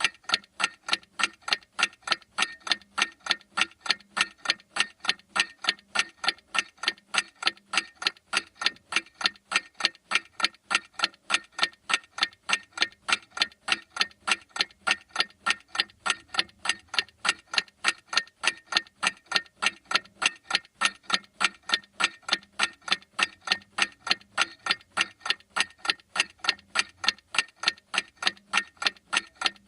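Clock ticking: rapid, evenly spaced mechanical ticks that keep an unchanging beat.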